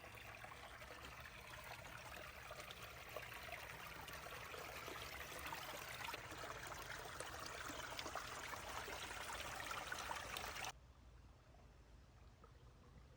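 Creek water trickling and flowing steadily, growing a little louder, then cutting off abruptly near the end, leaving only a faint low background.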